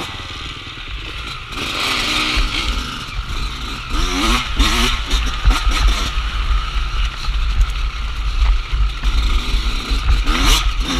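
Off-road trail motorcycle engine being ridden, its pitch rising and falling as the throttle is worked, with heavy wind rumble on the microphone.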